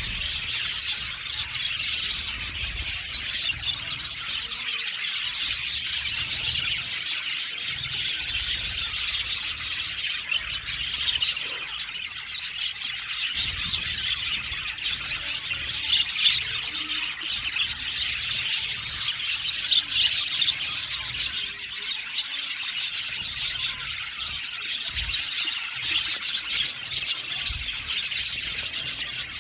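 A flock of budgerigars chattering and chirping together, a dense, continuous warble of many overlapping short high-pitched calls.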